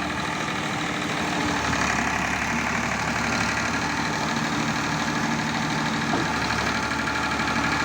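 Escort tractor's diesel engine running steadily.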